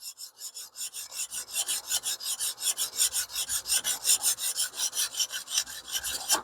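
Sharpening stone on a TS Prof Kadet Pro guided sharpening system scraping back and forth along a small cleaver's steel edge in quick, even strokes, stopping abruptly at the end.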